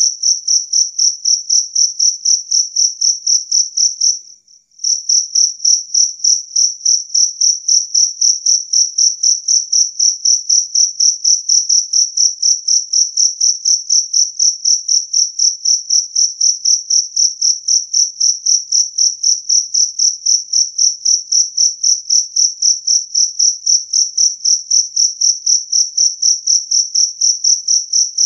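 Jangkrik kalung (two-spotted field cricket) chirping steadily: a clear, high, loud trill pulsing about four times a second, with one brief break about four seconds in.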